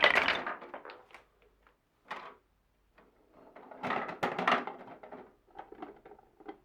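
Marbles rolling and clacking along a wooden marble run. A busy clatter dies away in the first second, a short rattle comes about two seconds in, and from about four seconds another run of rolling and clicks thins into scattered ticks.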